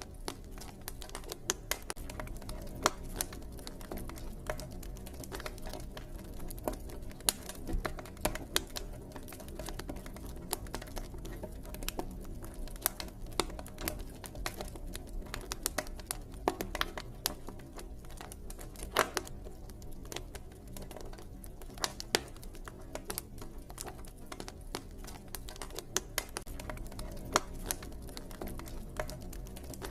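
Campfire crackling: irregular sharp pops and snaps of burning wood, several a second, over a low steady rumble.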